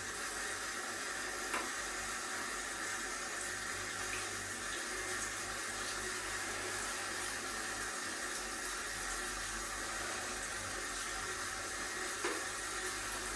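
Shower water spraying steadily, a constant even hiss, with a couple of faint brief knocks.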